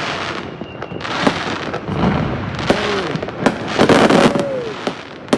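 Fireworks going off: several sharp bangs among repeated waves of crackling.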